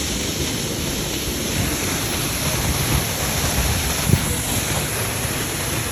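Steady rushing noise of a waterfall, mixed with low wind buffeting on the microphone. A brief low thump about four seconds in.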